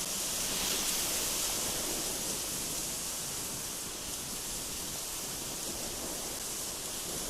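Strong mountain wind sweeping through trees: a steady high hiss that swells slightly about a second in.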